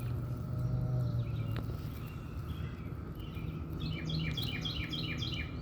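A songbird singing a fast, even series of short chirps, about five a second, in the second half, over a steady low hum.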